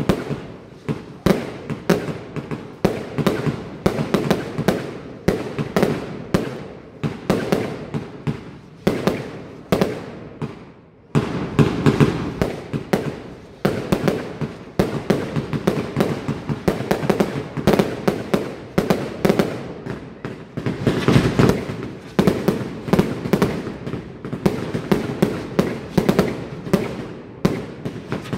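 Professional fireworks display: a rapid, continuous barrage of launches and bursting aerial shells, many bangs a second. There is a brief break about eleven seconds in, followed by a denser salvo, and another dense salvo around twenty seconds in.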